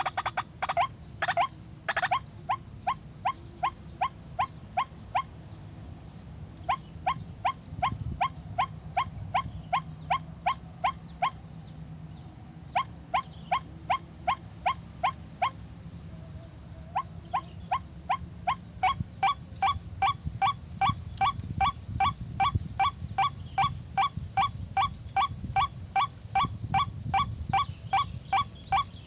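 White-breasted waterhen (ruak-ruak) calling: long runs of short, sharp, evenly repeated notes, about two to three a second, in several bouts broken by short pauses. The calls come faster and more steadily in the second half.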